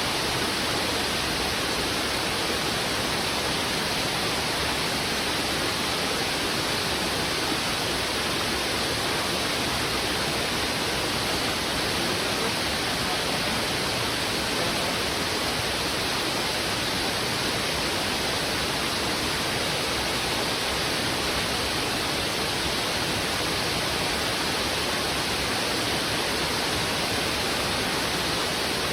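Heavy river water rushing fast over rocks: a dense, steady rush of water with no breaks or changes.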